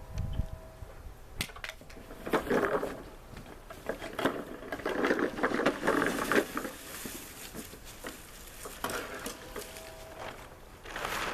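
Lawnmower with its engine off being pushed, rattling and clattering in uneven bursts with scattered knocks and a low thump at the start.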